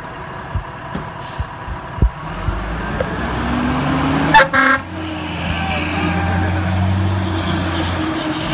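Fire engine pulling away, its engine rising in pitch as it accelerates and then running steadily. Two short horn blasts come about four and a half seconds in. A few sharp clicks are heard early on.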